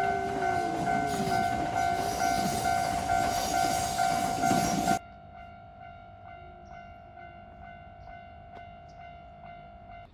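A train running past a Japanese level crossing while the crossing's electronic warning bell rings in rapid repeated dings, about three a second. About five seconds in, the train noise cuts off abruptly, leaving the warning bell alone and much quieter.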